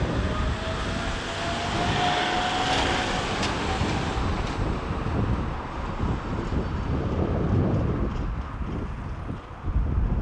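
Aircraft engine noise with a faint whine rising slightly in pitch over the first few seconds, under heavy wind buffeting on the microphone.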